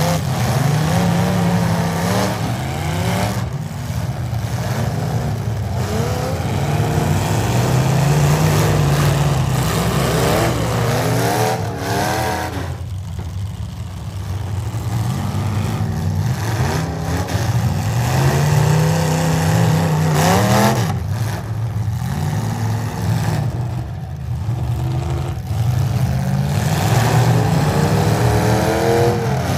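Full-size V8 demolition derby cars' engines revving hard over and over, their pitch rising and falling as they spin their wheels in the mud, with a few sharp knocks along the way.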